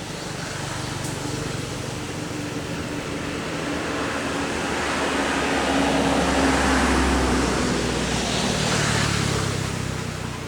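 A motor vehicle passing: its engine and road noise swell to a peak past the middle, then fade.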